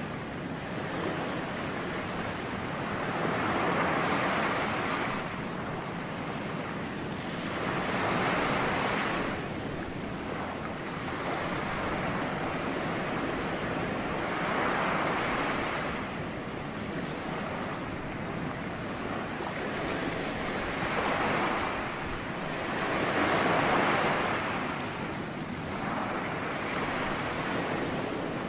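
Ocean surf: waves breaking and washing in a steady rush, swelling louder about five times as individual waves break.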